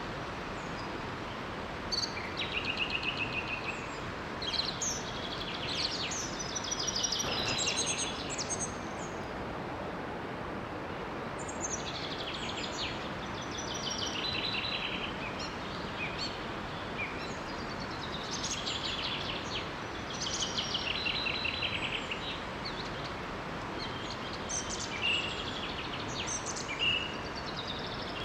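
Songbirds singing in short phrases of rapid high notes over the steady rush of a small waterfall, the songs coming and going every few seconds.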